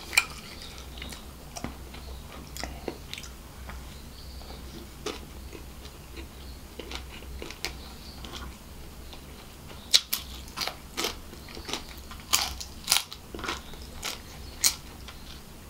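Close-miked chewing of seafood fried rice: wet mouth clicks and smacks, sparse at first, then coming faster and louder in the last six seconds or so.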